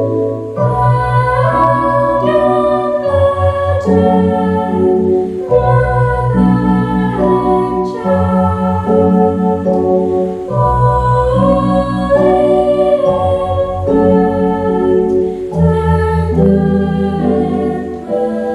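Girls singing a Christmas service song with organ accompaniment: held organ chords change every second or two under the sung melody.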